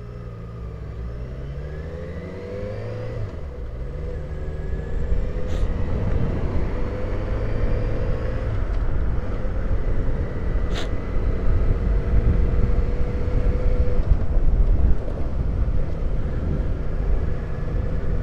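Motorcycle engine pulling away, its note rising and then dropping at a gear change about three seconds in. It then settles into steady running under rumbling wind and road noise that grows as speed builds, with two brief ticks along the way.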